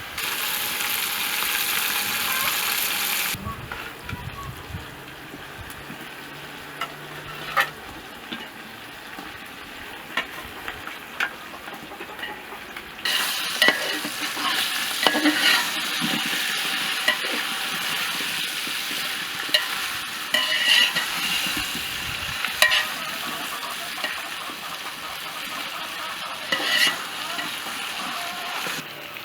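Food sizzling as it fries in hot oil in a pan, with scrapes and clicks of a utensil stirring it. The sizzle is loud for the first few seconds, drops to a quieter stretch of scattered clicks, and returns loud about halfway through.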